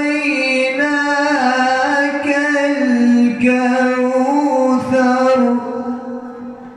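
A reciter's voice in melodic Quran recitation (tajweed), drawing out long ornamented notes with winding pitch turns, then fading out near the end.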